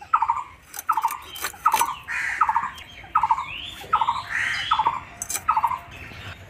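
Birds calling: a short, rapidly pulsed call repeated about every two-thirds of a second, with two louder rising squawks in the middle, over a few sharp clicks as fish is cut on a boti blade.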